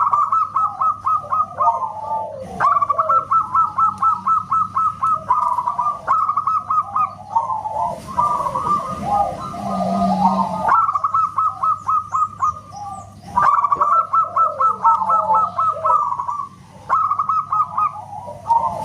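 Zebra doves (perkutut) singing: quick runs of repeated staccato cooing notes in phrases a few seconds long, with more than one bird overlapping.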